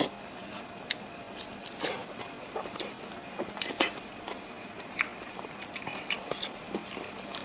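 A person chewing and biting into blood sausage, pork intestine casing stuffed with pig's blood, with irregular small mouth clicks and smacks.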